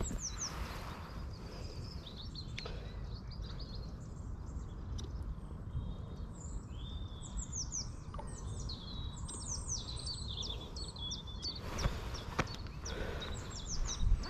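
Small birds calling with series of short, quick falling chirps in several bouts, over a steady low rumble, with a few brief rustles near the end.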